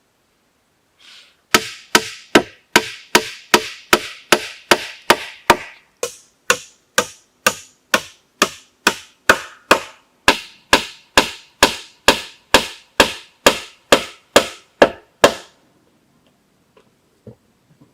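Steady, rapid chopping on wood, about two and a half strikes a second for some fourteen seconds, each blow sharp and ringing briefly; it stops suddenly near the end.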